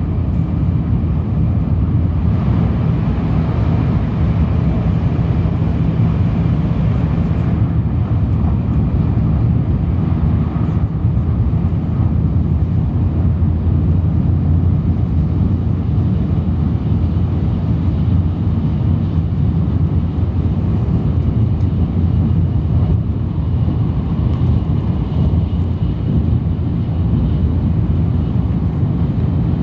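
Shinkansen train interior at speed: a steady low rumble and rush of running noise, with a brief brighter hissing stretch a few seconds in.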